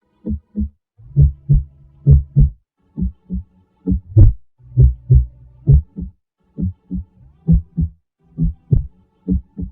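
Heartbeat sound effect: paired low thuds, lub-dub, repeating steadily a little under once a second.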